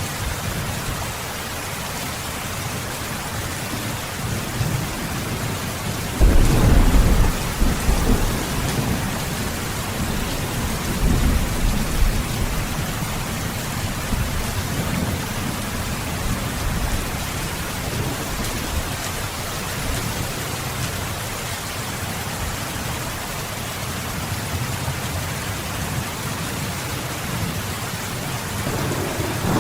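Steady heavy rain with thunder. A loud low rumble breaks in suddenly about six seconds in and rolls for a couple of seconds, a weaker roll follows around eleven seconds, and another begins near the end.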